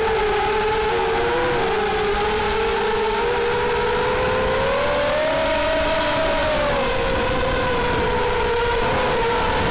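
Brushless motors and propellers of a 250-size FPV racing quadcopter on a 4S battery, whining steadily in flight. The pitch climbs about five seconds in and eases back down about two seconds later.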